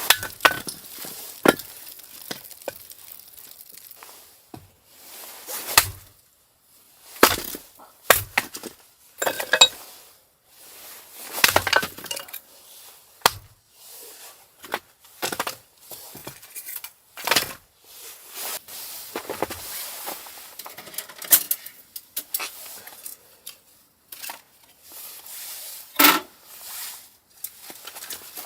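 A long run of irregular sharp clinks, knocks and cracks, some loud and some faint, at no steady rhythm, like hard objects being handled and set down.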